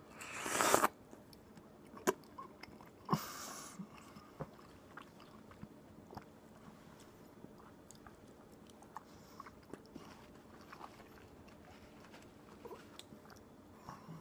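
Close-miked biting and chewing of cantaloupe: a loud bite about half a second in, another about three seconds in, then quieter chewing clicks.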